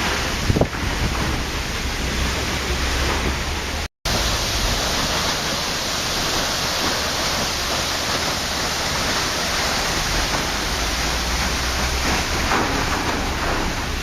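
Waterfall: a steady, even rush of falling water, which cuts out for an instant about four seconds in.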